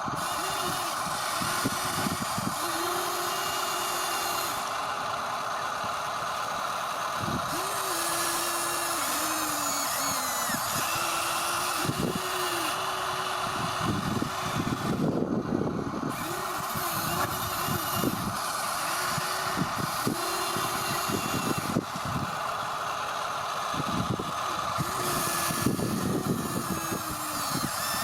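Small electric motors of RC construction toys whining, starting and stopping again and again, their pitch rising and falling as the machines are driven and worked, over a steady hum.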